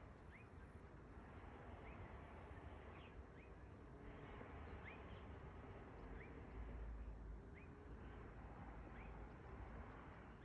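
A faint low rumble from an unseen source, heavier a little past the middle, which sounds odd and might be some sort of machinery. A bird repeats short rising chirps about once a second over it.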